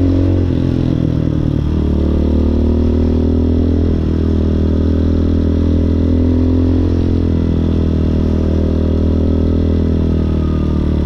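Hawk 250 dual-sport motorcycle's single-cylinder four-stroke engine running steadily under way, heard from on the bike; its note shifts about two seconds in and then holds.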